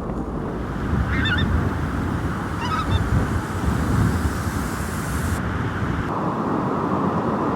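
Pink-footed geese calling, short high calls about a second in and again near three seconds, over strong wind buffeting the microphone.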